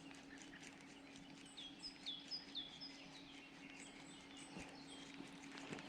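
Faint songbird calling: a quick series of four or five short, high, downward-slurred notes about one and a half to three seconds in, over quiet outdoor background.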